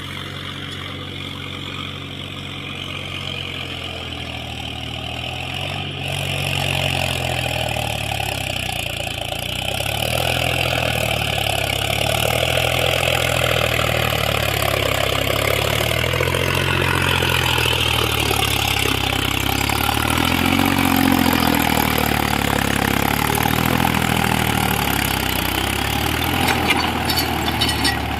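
Mahindra 265 tractor's three-cylinder diesel engine running steadily under rotavator work, its sound growing louder over the first ten seconds or so and then holding even.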